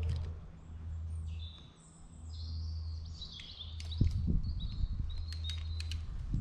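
Songbirds singing, with whistled phrases and chirps, over a steady low rumble. A few soft low thumps come in the second half.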